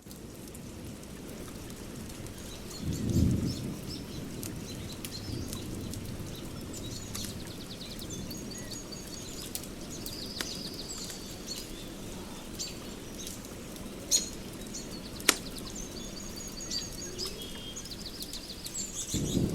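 Birds chirping and trilling over a steady rushing background, with a few sharp cracks and a brief low rumble about three seconds in.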